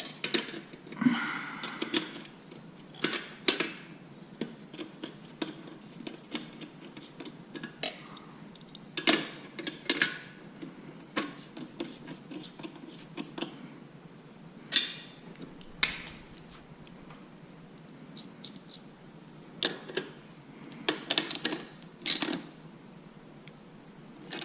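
Irregular metal clicks, taps and clanks from hand tools and exhaust parts being worked on a motorcycle, with a few louder knocks here and there.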